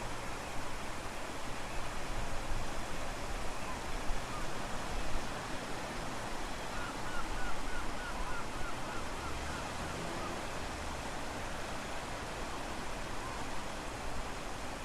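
Wind and ocean surf at low tide: a steady rushing noise with gusty low rumble, the wind strong. Partway through, a quick run of about ten short high chirps.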